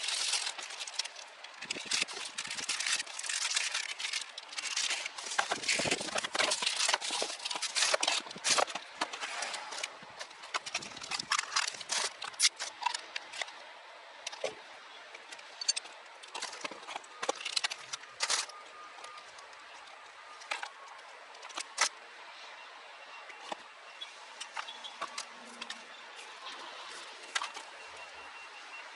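Rapid clicks, taps and rattles of hard parts and tools being handled. They come close together for about the first half, then grow sparse.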